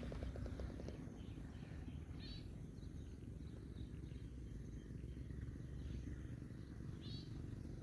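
Faint rural outdoor ambience: a few short bird chirps, a couple of seconds apart, over a low steady rumble.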